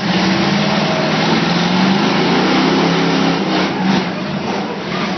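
Demolition-derby trucks' engines running and revving, with a steady low engine note that shifts in pitch partway through, under a dense mechanical din.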